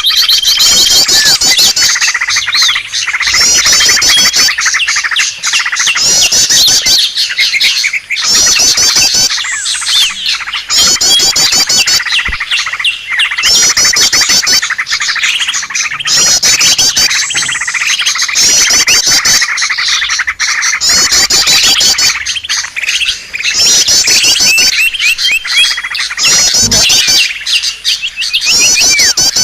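Small birds chirping loudly and densely, a rapid high trill repeating about every two seconds over continuous chatter: a bird-lure call recording for attracting small birds.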